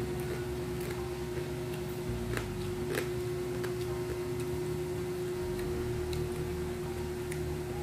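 Eating sounds from chewing crispy fried crab: a few sparse sharp clicks and crunches, two stronger ones about half a second apart near the middle, over a steady hum.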